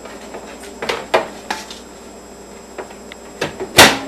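A microwave oven and a dish being handled: a few knocks and clicks, the loudest a sharp thud near the end as the door is shut.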